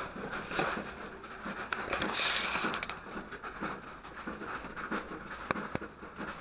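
Water dripping and pattering irregularly inside a rock cave, with sharp single drips scattered throughout over a steady hiss of running water. A brief hissy swell comes about two seconds in. The water is runoff from a waterfall off the cliff, leaking into the cave more than usual.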